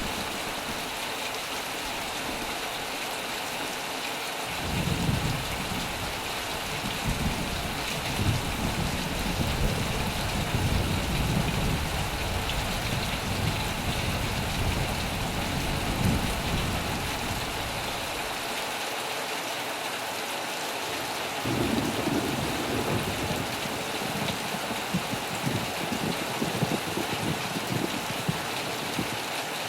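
Heavy rain drumming steadily on a metal roof. Low rolls of thunder come in about four seconds in, die away for a few seconds past the middle, then return.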